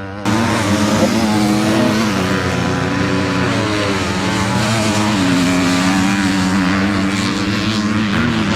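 Several motocross bikes' engines racing together, their notes rising and falling over each other as the riders work the throttles.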